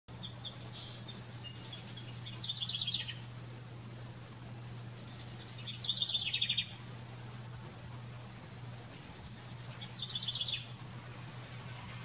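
A songbird repeating a short, rapid trill three times, roughly every three and a half seconds, with fainter chirps in the first two seconds. A steady low hum runs underneath.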